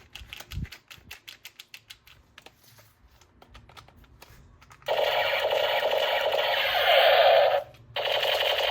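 Light plastic clicks from toy gun parts being handled. About five seconds in, a battery-powered toy gun starts a loud, rapid rattling buzz of automatic fire, stops for a moment near the end, then starts again.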